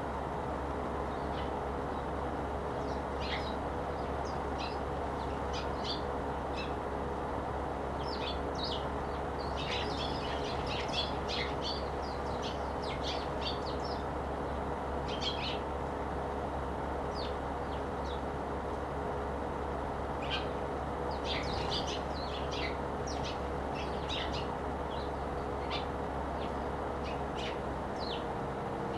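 A flock of Eurasian tree sparrows chirping: many short, scattered chirps, busiest in two spells, over a steady low hum.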